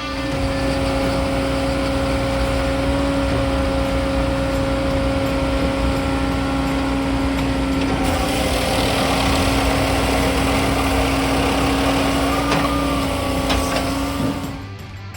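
Firewood processor and its powered conveyor line running, with a steady machine hum carrying a constant low whine. About halfway through, a coarser rushing noise joins in.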